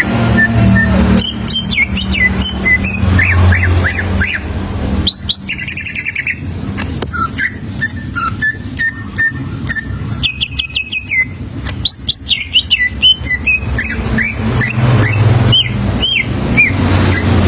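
Cucak ijo (green leafbird) singing a varied song of sharp rising and falling whistled notes and chirps, broken by a couple of short buzzy trills. A low steady hum runs underneath.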